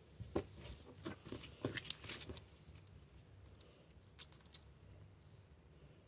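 Light patter and rustling from a small pet rabbit: a busy run of soft taps and clicks in the first couple of seconds, then a few faint scattered ticks.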